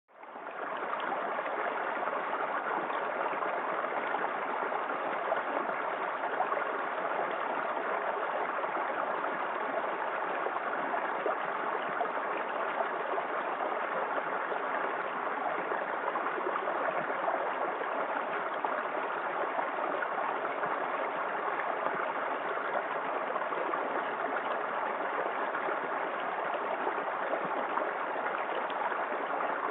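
Small waterfall in a forest creek: water pouring and splashing in a steady, even rush. The sound cuts out for an instant at the very start and fades back in within about a second.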